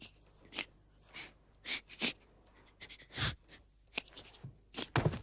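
Irregular light clattering: about ten short knocks and clicks of small hard objects, scattered unevenly, with the loudest pair near the end.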